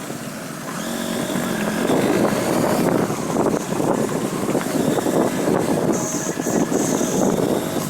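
Motorcycle engine running under way on the road, its note rising as it speeds up about a second in, mixed with rushing wind noise.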